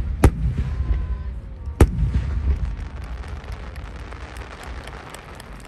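Aerial fireworks bursting: two sharp bangs about a second and a half apart over a low rumble, then fading into scattered small crackles as the sound dies away.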